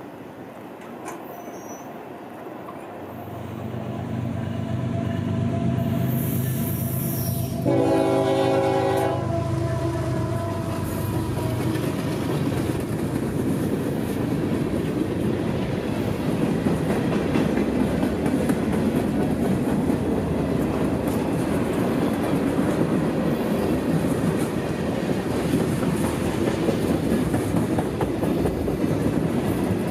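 Diesel freight locomotive coming up with its engine growing louder, then a short blast of its air horn about eight seconds in. After that, the freight cars roll steadily past, their wheels rumbling and clattering on the rails.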